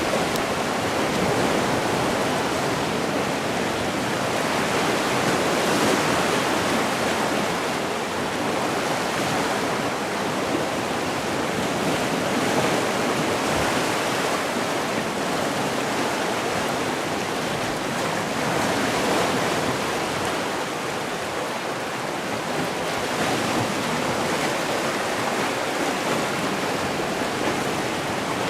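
Sea surf washing in steadily, with slow, gentle swells in loudness.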